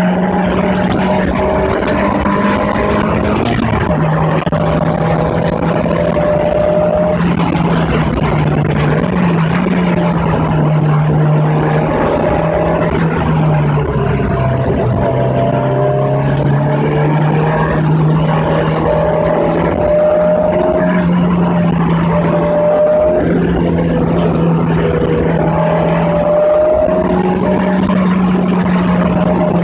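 Ford Sierra Cosworth Group N car's turbocharged 2.0-litre four-cylinder engine running at steady, fairly high revs as a loud, continuous drone. Its pitch dips slightly a few times and comes back up near the end.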